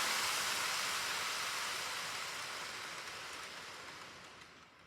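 Model EF210 electric locomotive and container train running on the layout track, an even whirring hiss that fades away steadily as the train slows to a stop at the station.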